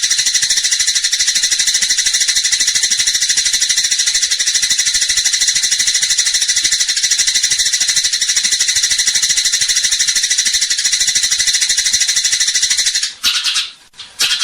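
Eurasian tree sparrow giving a loud, rapid, pulsing chatter, a high rattling stream of calls. It breaks off for a moment near the end.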